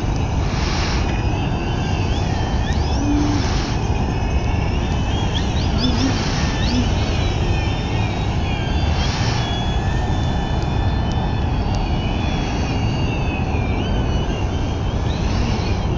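Electric motor and propeller of a Precision Aerobatics Addiction RC aerobatic plane whining in flight, the pitch gliding up and down with the throttle, over a steady low rumble.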